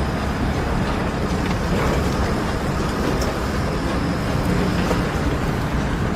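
Steady engine noise of a running vehicle or machine, a continuous low rumble with even noise over it.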